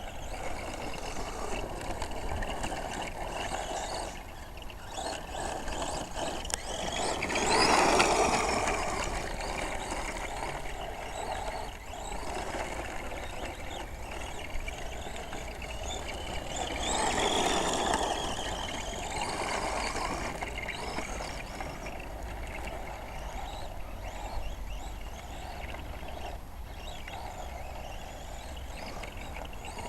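Radio-controlled model truck driving, its motor giving a thin steady whine that drifts gently up and down in pitch, with two louder surges about 8 and 17 seconds in.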